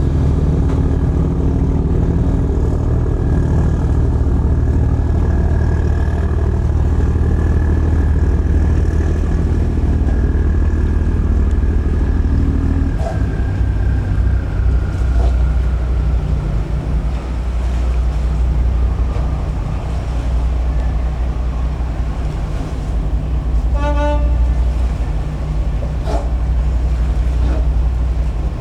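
A large engine running loudly and steadily close by, its note changing about 13 seconds in, with a short horn toot near the end.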